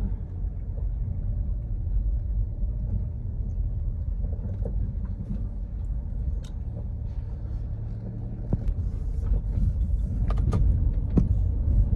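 Vehicle travelling along a muddy red-dirt road: a steady low engine and road rumble, with a few knocks and a rising hiss in the last few seconds.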